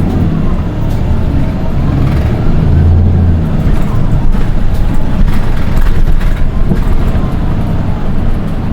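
Interior running noise of a Nissan Diesel Space Runner RM820 city bus: a low diesel drone with a thin, high-pitched whine that glides up and down in pitch as the bus drives. This is the shrill engine note that sets this one bus apart from the others of its type, and the uploader wonders whether it is an abnormal noise.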